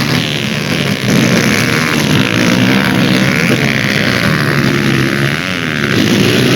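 Motorcycle engines running, their pitch rising and falling as they rev.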